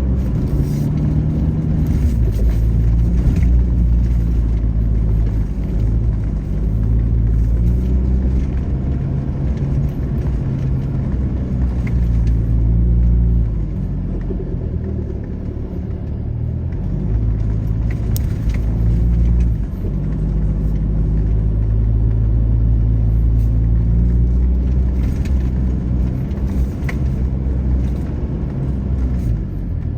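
Toyota LandCruiser 79's engine working under load in low-range four-wheel drive on a steep climb. The engine note rises and falls with the throttle and eases off for a few seconds around the middle.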